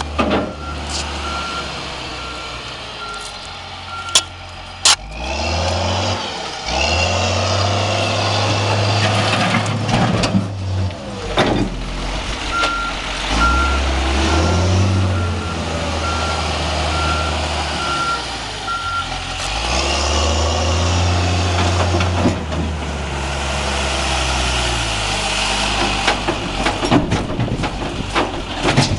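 John Deere 710J backhoe loader's diesel engine running and revving up and down repeatedly under working load, with a whine that rises and falls with it. Its reversing alarm beeps steadily early on and again through the middle, and there are a couple of sharp clanks about four seconds in.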